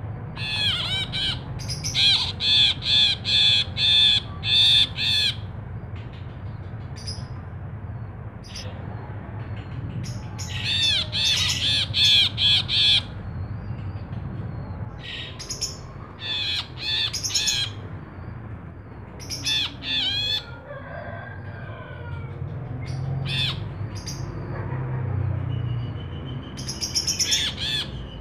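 Cinereous bulbul (brinji kelabu) singing: rapid runs of repeated arched whistled notes in bursts of a few seconds, with shorter phrases between pauses, over a steady low hum.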